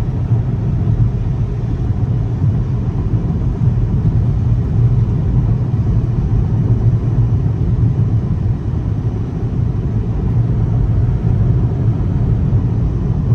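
Steady low road rumble inside the cabin of a car moving at highway speed: tyre and engine noise with no change in pace.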